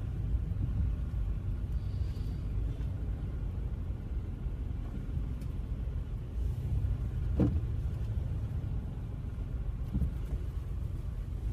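A car driving, with a steady low road and engine rumble. There is a brief knock about seven and a half seconds in.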